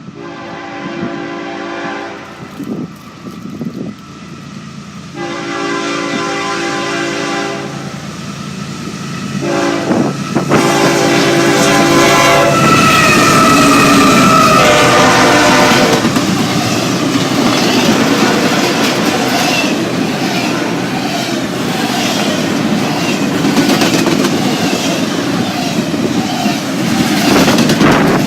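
Diesel locomotive horn sounding the grade-crossing pattern: two long blasts, a short one and a final longer one. The train then runs past with loud rumbling and the clickety-clack of wheels over rail joints.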